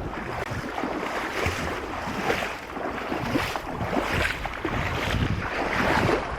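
Sea water sloshing and splashing, with wind buffeting the microphone.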